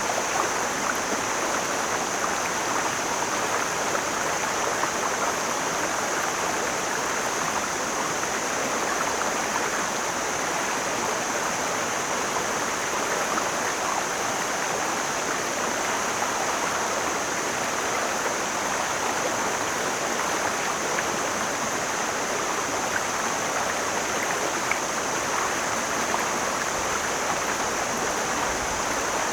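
Mountain stream flowing steadily, an even rush of water with no changes, and a steady high-pitched hiss running above it.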